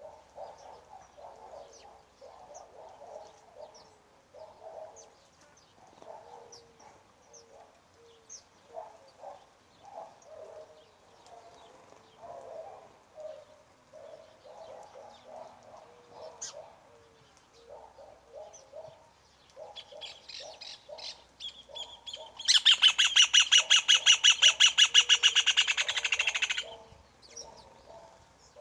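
Birds calling: many short, repeated low-pitched calls, with faint high chirps over them. A little past twenty seconds in, a bird gives a loud, rapid, harsh trill close by, lasting about four seconds.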